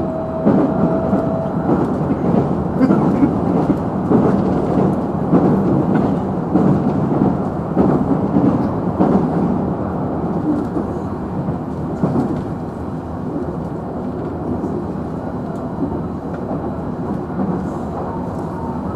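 JR Central 311 series electric train running at speed, heard inside the car: a dense rumble of wheels on rail with many sharp clicks. A thin steady whine stops about a second and a half in, and the rumble eases a little in the second half.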